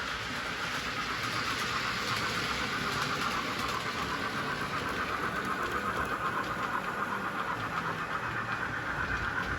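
Model railway train running along the layout: a steady motor whir and wheel noise on the track, with a quick regular pulsing that grows stronger in the second half.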